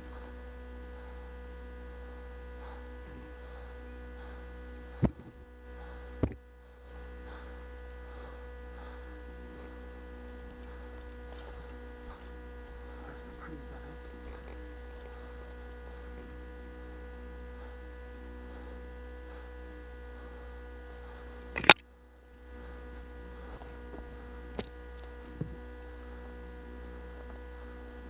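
Steady electrical hum with a few fixed tones, broken by three sharp cracks, two close together about five and six seconds in and a louder one about twenty-two seconds in, then two fainter clicks near the end.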